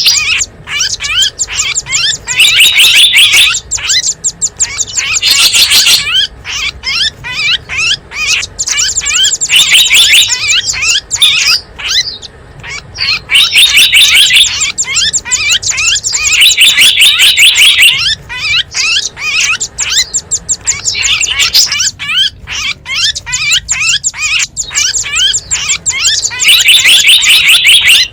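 Recorded calls of small wild songbirds played as a bird lure: loud, fast, high-pitched chirping trills in bursts of a second or two, repeated over and over.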